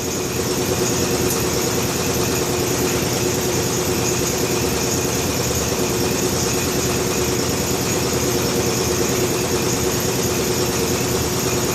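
A machine running steadily, a constant drone with an even hum and no breaks.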